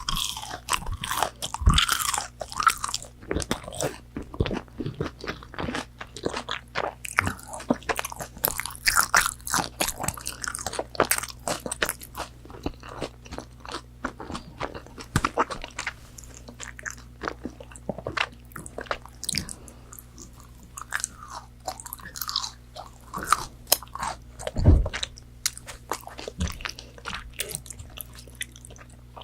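Close-miked biting and chewing of crispy fried McDonald's chicken nuggets: dense crunches and crackles of the breaded coating, with wetter chewing between bites.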